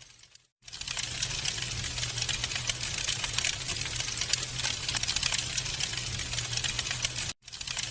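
Wood fire crackling with a dense, fast patter of small pops and snaps over a low hum. The sound cuts out to silence for a moment just after the start and again near the end.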